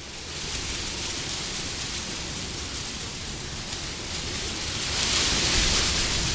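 Wind blowing: a steady rushing noise that swells into a stronger, hissier gust about five seconds in, then eases slightly.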